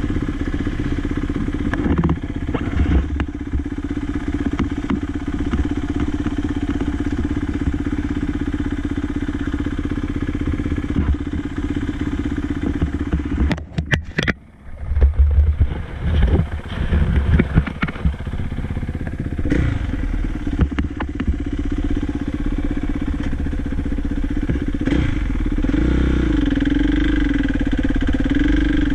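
Dirt bike engine running under way, with wind and rattling over it. About halfway through the sound drops out for a moment, then comes a run of knocks and thumps; near the end the engine note rises and falls with the throttle.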